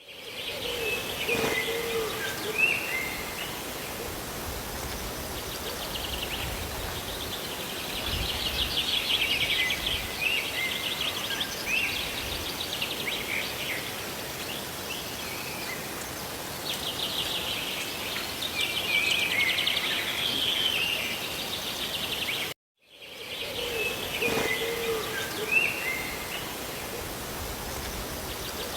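Steady rain with birds chirping and trilling over it. The sound drops out for a moment near the end, and the same rain-and-birdsong recording then starts over.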